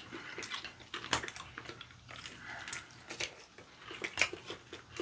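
Close-up eating of sauce-coated fried chicken: wet chewing and smacking with many short sharp clicks, the loudest about a second in and again near four seconds.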